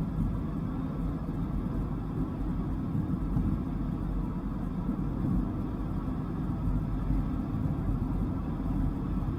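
Dodge Viper's V10 engine running steadily at cruise, a low rumble mixed with road noise, with no revving or gear changes.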